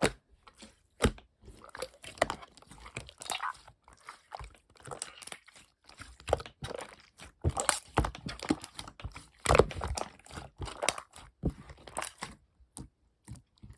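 Slime being squished, poked and stretched by hand, making irregular sticky pops, clicks and crackles.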